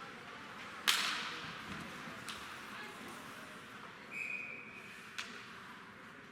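Ice hockey rink sounds: a loud sharp crack with a ringing tail about a second in, as a puck or stick strikes hard, then lighter clacks, and a brief high whistle a little past four seconds in.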